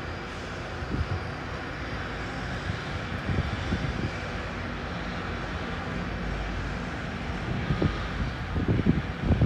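Sounder commuter train of bilevel coaches rolling past with a steady rumble and a few low thuds. The thuds come thickest near the end as the diesel locomotive goes by.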